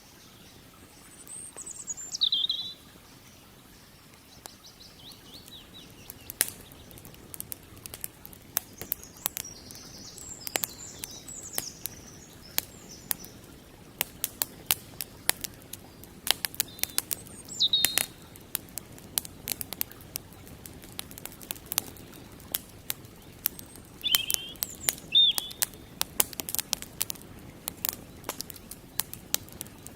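Wood campfire crackling with frequent sharp pops, busier after the first few seconds. Birds call over it: a loud downward-swooping chirp about two seconds in, a short warbling song around ten seconds, another swooping chirp past the middle, and two more a few seconds before the end.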